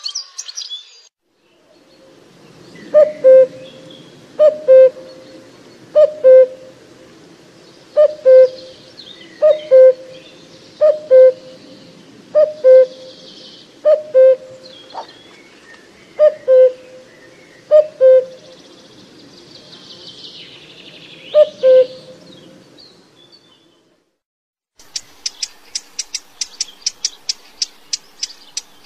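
A bird gives low two-note calls, repeated about every second and a half, with faint high chirping of other birds behind. Near the end this gives way to a fast, even, high ticking trill at about five ticks a second.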